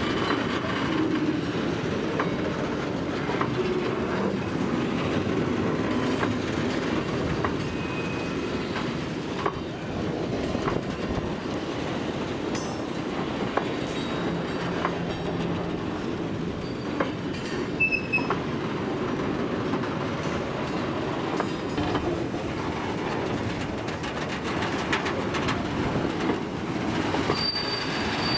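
A freight train rolling by, its wheels clattering over the rail joints in a steady run of clicks, with a few short, high wheel squeals.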